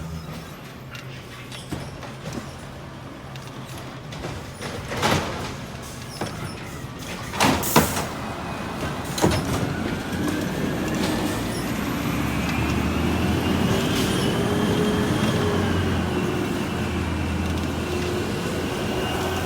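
A truck: a few sharp clanks or bangs, then from about halfway an engine running up with a whine that rises and then holds steady.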